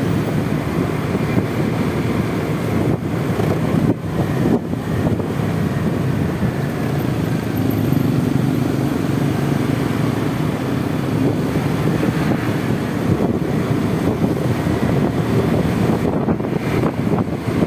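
Honda Vario 125 scooter riding steadily through city traffic: a 125 cc single-cylinder engine running, with road noise and wind rushing over the microphone.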